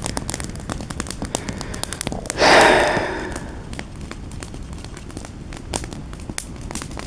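Small campfire crackling with irregular sharp pops. About two and a half seconds in comes a louder, short rush of breathy noise that fades within about a second.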